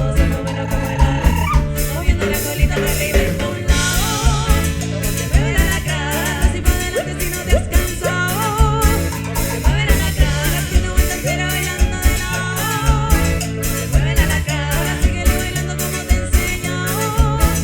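Folk band playing an up-tempo song with a steady beat: accordion, guitar, electric bass and drum kit.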